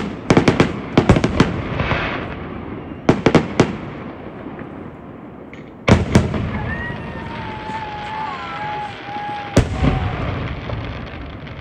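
Aerial fireworks shells bursting: a rapid run of sharp bangs in the first second or so, another cluster about three seconds in, more near six seconds, and a single loud bang near the end, each trailing off in an echoing rumble.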